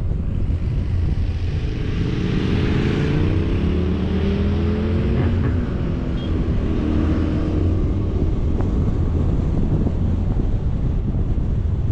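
Wind buffeting the microphone, with a vehicle engine running under it. The engine's pitch comes in about two seconds in, shifts over the next several seconds and fades back into the wind near the eighth second.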